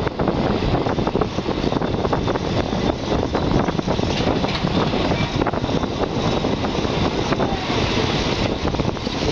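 Passenger train running along the track, heard from a carriage window: a steady rumble of steel wheels on the rails, with many small clacks running through it.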